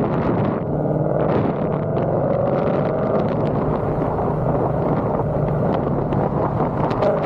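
Ford Coyote 5.0 V8 exhaust through Kooks headers, running steadily with a continuous drone and a slight rise in pitch about two seconds in.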